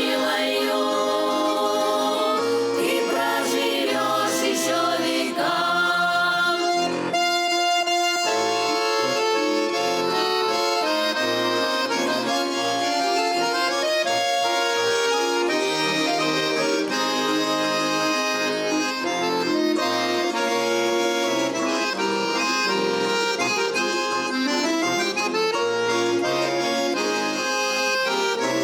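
Accordion playing a folk melody on its own, a steady run of sustained chords and melody notes.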